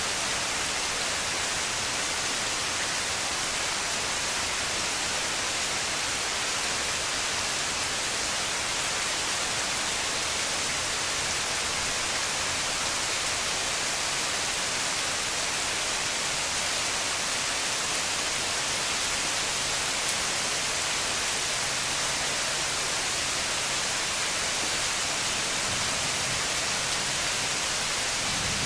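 Rain falling steadily on trees and garden foliage, an even hiss.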